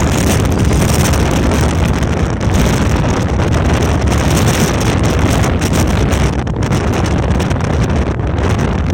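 Strong wind blowing hard over the microphone: loud, heavy wind rumble with gusty flutter.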